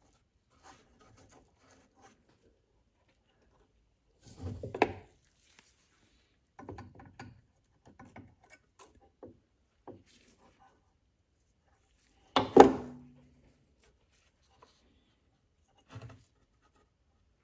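Scattered small clicks, scrapes and rattles of hands and tools fiddling a tiny governor spring onto a lawn mower engine's carburetor linkage, with one louder clatter about twelve seconds in.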